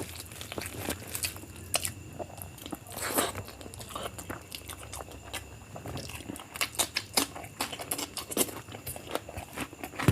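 Close-up chewing and biting sounds of someone eating biryani, a steady run of irregular wet clicks and crunches.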